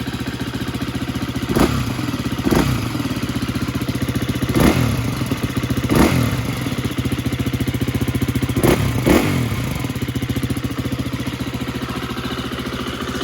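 2020 KTM 350 EXC-F's single-cylinder four-stroke engine idling and blipped six times with short stabs of throttle, each rev rising and falling quickly back to idle. It breathes through the stock exhaust, which the owner finds still plugged up from the factory.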